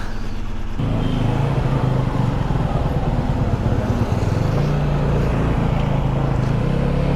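Road vehicle engine running as it moves off. The steady hum gets louder about a second in and steps up in pitch around four and a half seconds in.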